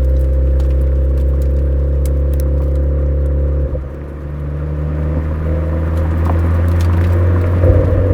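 Suzuki Swift Sport ZC33S's 1.4-litre turbo four-cylinder running through a Fujitsubo aftermarket muffler on the move, a steady exhaust tone. Partway through the sound suddenly drops, then builds back up gradually over a few seconds.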